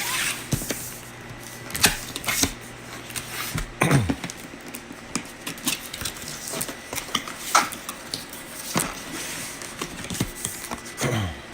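A retail tool box being opened by hand: irregular clicks, knocks and scrapes of cardboard and plastic packaging, with a few louder snaps and short tearing or sliding sounds.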